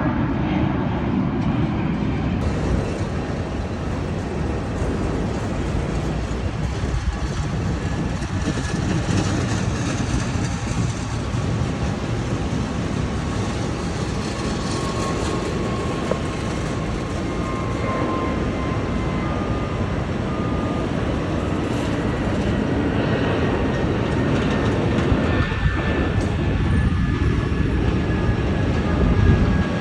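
Jet airliner engines: a loud, steady rumble with a faint whine that slowly falls in pitch.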